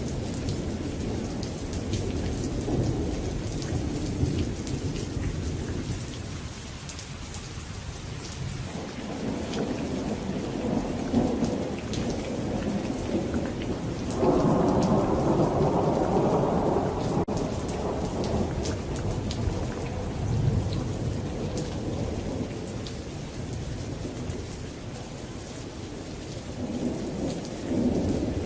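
Thunderstorm: steady rain with scattered drops pattering, under rolling thunder that swells and fades several times, the loudest roll starting suddenly about halfway through and lasting a few seconds.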